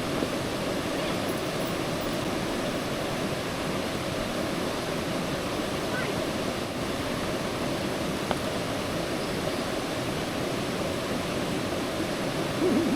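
Waterfall pouring steadily into a river pool, an even rushing of water. A single brief click about eight seconds in.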